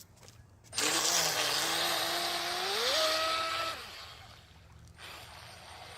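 Radio-controlled racing boat's motor whining over a loud hiss. The whine starts about a second in, rises in pitch as the boat speeds up, then drops away. It comes back again near the end.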